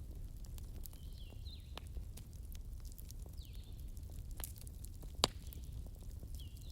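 Wood fire crackling with irregular sharp pops, the loudest a little after five seconds in, over a steady low rumble. Short chirping calls recur every second or two in the background.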